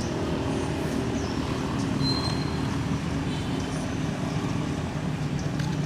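A motor engine running steadily, a low even hum, with a few faint high chirps and squeaks over it.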